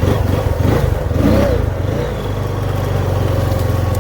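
Honda off-road vehicle's engine running, with a brief rev about a second in that then settles back to a steady, even pulse.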